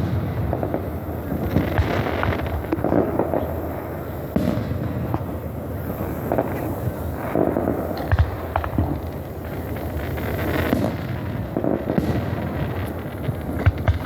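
Aerial fireworks bursting one after another: a continuous run of booms and crackles, with sharper bangs about eight seconds in and near the end.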